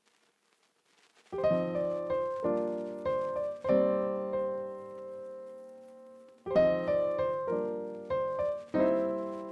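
Background music on piano: a short melodic phrase begins about a second in, a chord is held and fades, then the phrase comes again.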